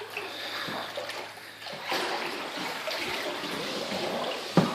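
Floodwater splashing and sloshing as someone wades through it, with a sharp knock near the end.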